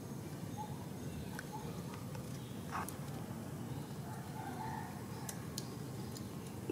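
Outdoor background ambience: a steady low hum of noise with short, faint bird chirps scattered through it, a louder brief call about three seconds in, and a few faint clicks.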